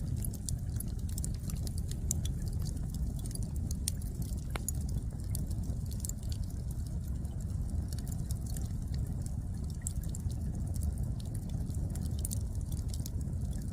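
Wood fire burning, with frequent sharp crackles and pops from the firewood over a steady low rumble.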